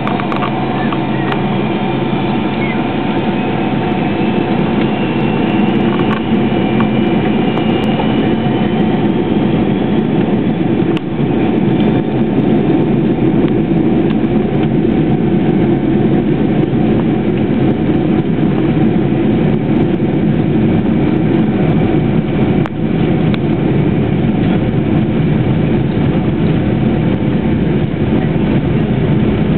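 Boeing 727 cabin noise from inside the cabin: its three rear-mounted JT8D turbofans running with a heavy rumble and steady whining tones, the level building over the first dozen seconds and then holding steady.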